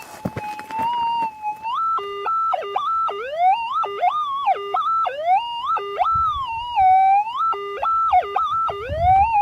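Minelab GPX 5000 metal detector's audio: a steady threshold hum that, about two seconds in, breaks into a run of wailing signals, jumping high, dropping low and gliding back, over and over, before settling to the steady hum near the end. It is an odd, warbling target response, which the operator first took for aluminium or tin.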